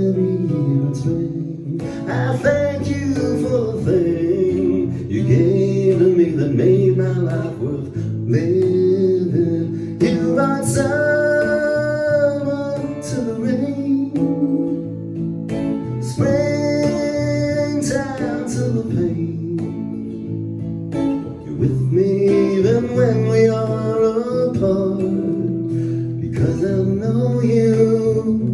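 Live song with strummed acoustic guitar and a singing voice, the voice holding long, bending notes in several phrases over the steady guitar.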